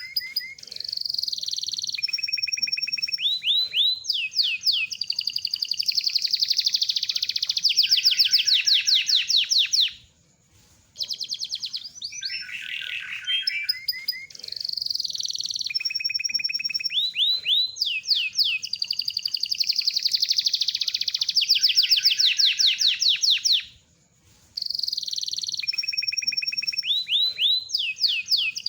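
Domestic canary (kenari loper) singing a long continuous song of fast rolling trills and high whistled notes, with two brief pauses.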